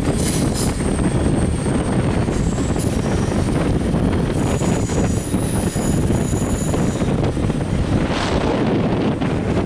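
Passenger train running at speed, heard from an open window of a coach: a steady rumble of wheels on the rails mixed with wind rushing past the microphone. Thin high squeals come and go, typical of wheels rounding a curve.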